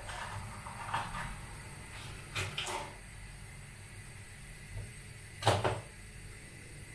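Household handling sounds: a few short knocks and clatters over a low steady hum, the loudest about five and a half seconds in.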